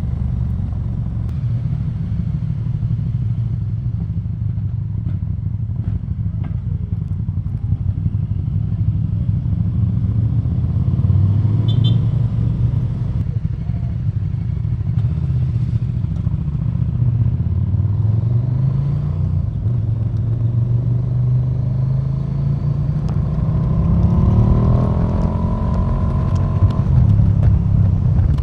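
KTM 1290 Super Duke R's V-twin engine running on the move at a steady low note. It dips briefly about two-thirds of the way through, then revs up in a long rising climb and drops back near the end.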